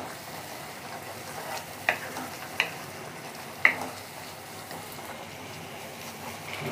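Onion-and-ginger spice paste frying in oil in a nonstick pan, sizzling steadily as it is stirred with a wooden spatula; the masala is being sautéed until the oil separates. Three short sharp knocks of the spatula on the pan come about two, two and a half and three and a half seconds in.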